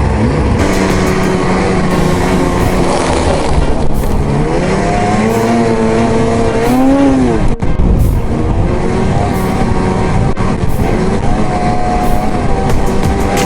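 Arctic Cat ZR 8000 snowmobile's 800 C-TEC two-stroke twin running under way. Its pitch climbs as it revs up in the middle, drops off sharply about seven and a half seconds in, then runs on at a steadier pitch.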